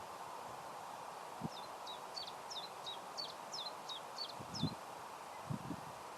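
A small bird singing a quick run of about ten short, high chirps over a steady outdoor hiss, with a few soft low thumps near the end.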